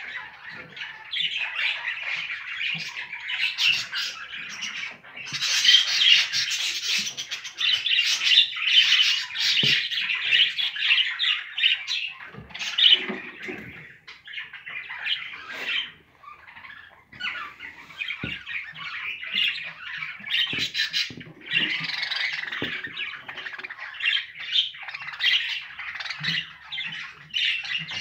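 Budgerigars chattering continuously, a dense mix of warbling chirps and harsh squawks.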